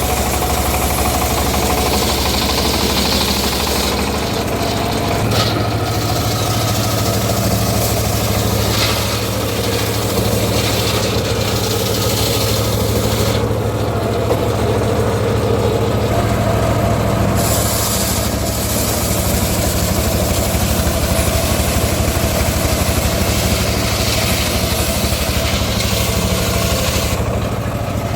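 Engine-driven homemade circular sawmill running steadily. The engine note steps up about four seconds in and drops back near the end.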